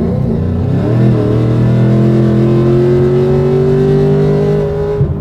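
Car engine accelerating hard at full throttle, heard from inside the cabin. The engine note climbs sharply, dips about a second in, then rises slowly and steadily until the throttle is let off near the end.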